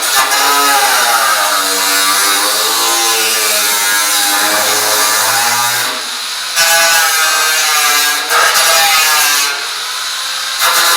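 Power drill running at varying speed, its whine rising and falling, with brief let-offs about six and nine and a half seconds in.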